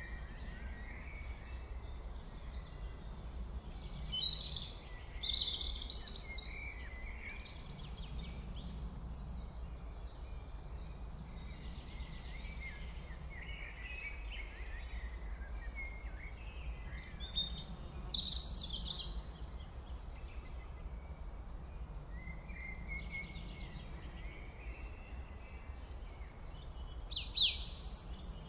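Birds chirping and calling in scattered short bursts, busiest a few seconds in, around the middle and near the end, over a steady low hum.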